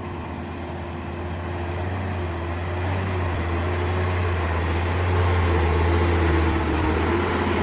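Diesel truck engine running under load as the truck pulls forward up a slippery climb, a steady low drone that grows louder.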